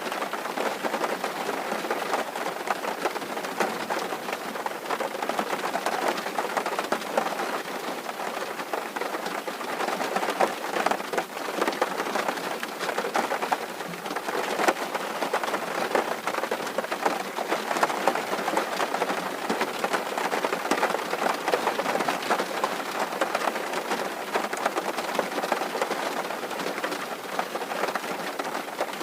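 Steady rain drumming on a tin roof: a dense, even patter of countless drops on sheet metal, without let-up.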